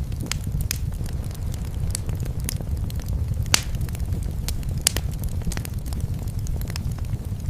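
Wood fire burning in a fireplace: irregular crackles and pops over a steady low rumble, with the sharpest pops about three and a half and five seconds in.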